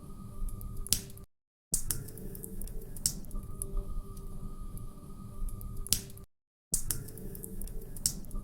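Wood fire crackling, with sharp pops over a low steady rumble. The sound cuts out to dead silence for under half a second twice, about a second in and about six seconds in.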